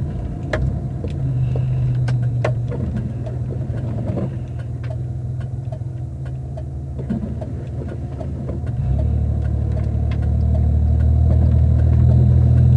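A car's engine and road noise heard from inside the cabin while driving. The hum swells louder about nine seconds in as the car speeds up, with its note rising slightly near the end. Faint scattered ticks sound throughout.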